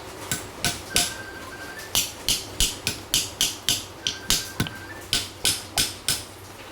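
Repeated sharp metal-on-metal taps, like a hammer striking a tool or engine part, about three a second with a pause after the first second. Each tap has a brief metallic ring.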